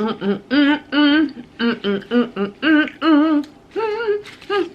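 A woman humming a wordless, sing-song tune: a string of short notes with a wavering vibrato.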